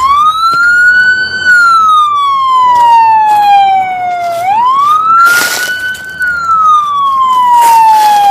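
Emergency vehicle siren on a wail cycle. The pitch climbs quickly for about a second and a half, then falls slowly for about three seconds, and the cycle repeats. A short burst of hiss cuts in about five seconds in.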